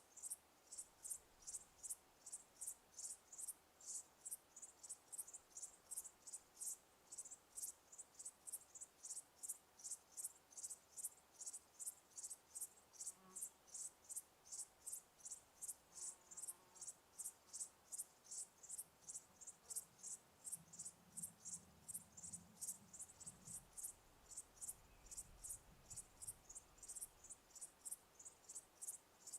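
A cricket chirping steadily, short high chirps repeating at about two to three a second, with a faint low rumble for a few seconds past the middle.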